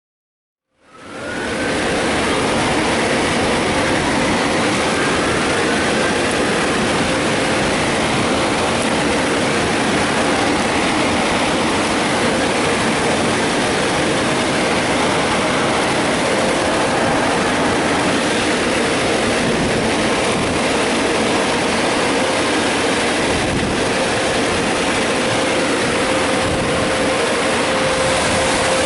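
Mark VII in-bay automatic car wash machinery running: a loud, steady rush of noise with a faint steady hum, starting abruptly about a second in.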